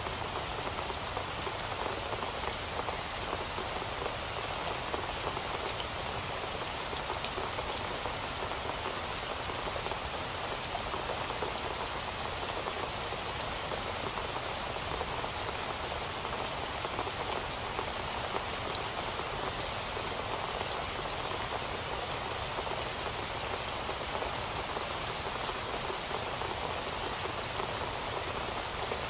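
Steady rain falling, a dense even patter of drops without thunder.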